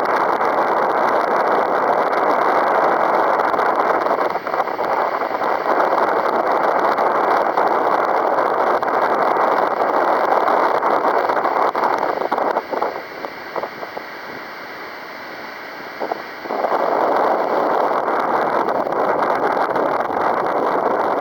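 Strong wind buffeting the microphone as a steady rush of noise. It eases for about four seconds a little past halfway, then picks up again.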